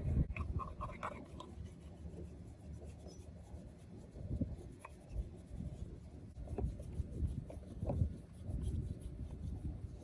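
Irregular rubbing and scraping by hand, with a few light knocks.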